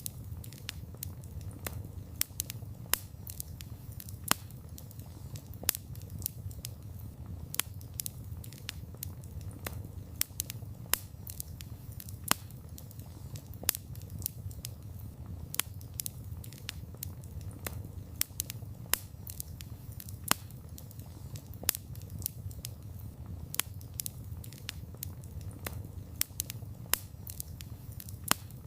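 Wood fire crackling: a steady low rumble of burning under many irregular sharp snaps and pops, the louder ones every second or two.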